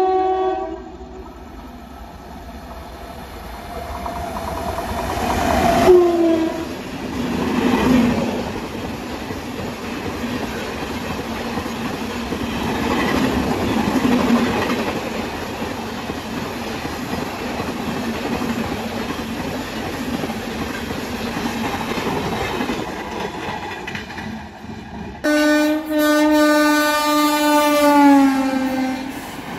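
Indian Railways electric locomotive horns and express trains passing at speed. A WAP-7's horn sounds and falls in pitch as the locomotive rushes by, followed by a long clattering run of coaches over the rails. About 25 s in a second train, hauled by a WAG-9, sounds a long horn that drops in pitch near the end as it passes.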